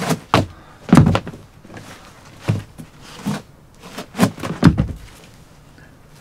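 A series of about seven dull knocks and thuds at irregular intervals, objects being handled and set down, the loudest about a second in and twice more near four and a half seconds in.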